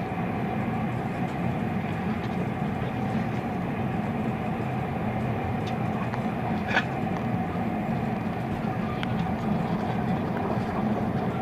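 Steady low rumble of a train running, heard from inside a passenger carriage, with a brief sharp click or rattle about seven seconds in.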